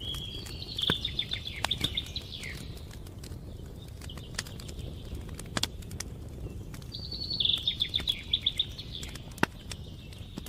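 Wood fire crackling, with irregular sharp pops and snaps over a low hiss. A songbird sings the same short phrase of quick repeated chirps twice, once near the start and again about seven seconds in.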